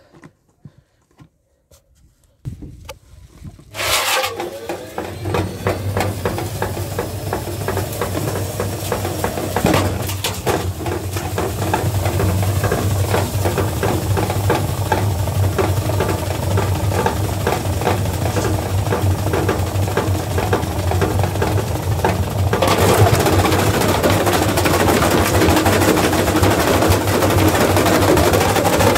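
Washing machine starting up after a few faint clicks and running hard: a steady motor hum under dense rapid rattling and knocking from the drum. About three quarters of the way through it turns louder and harsher.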